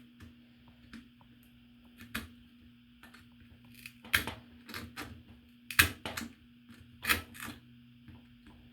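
Irregular sharp clicks and taps, with a few louder snaps about 4, 6 and 7 seconds in, from hands picking and cutting old hot glue off the small plastic parts of a miniature village candy mill. A steady low hum runs underneath.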